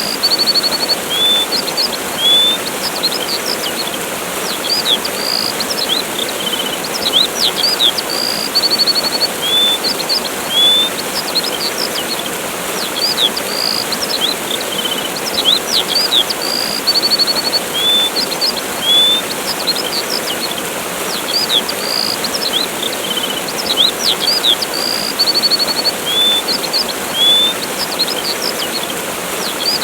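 Steady rushing of a waterfall with birds chirping over it: short high chirps, quick upward notes and brief trills. The same run of bird calls comes round again about every eight and a half seconds, as in a loop.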